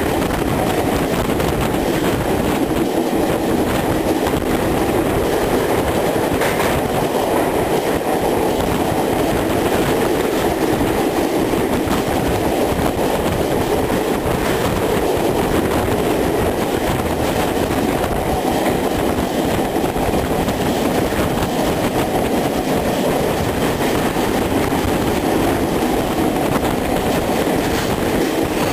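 Express passenger train hauled by a WDM-3D diesel locomotive running through a rail tunnel, heard from aboard: a steady, loud noise of wheels on rails and running coaches that holds without a break.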